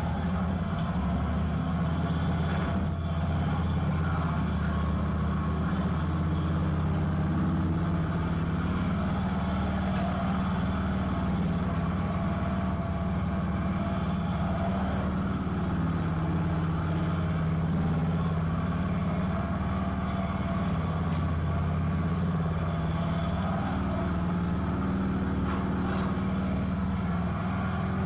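Police motorcycle engine running steadily at low speed during training manoeuvres, its pitch rising and falling slightly as the rider works the throttle, heard from the rider's own recording.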